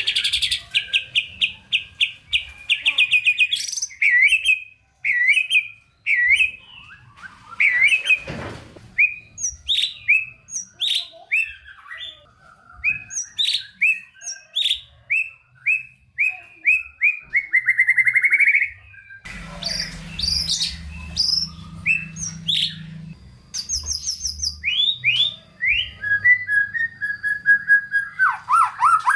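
White-rumped shama (murai batu) in full song: a long, varied run of rapid repeated whistled notes, slurs and trills, full of mimicked phrases (isian).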